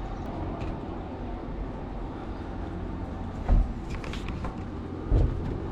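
A steady low mechanical rumble with a faint hum, broken by two short dull thumps about three and a half and five seconds in.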